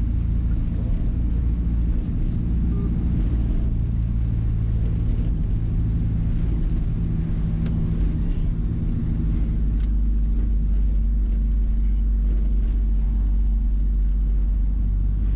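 Mazda B-Series pickup's engine, running on Holley Sniper fuel injection, droning steadily while driving along, with road noise. The engine note changes about nine seconds in.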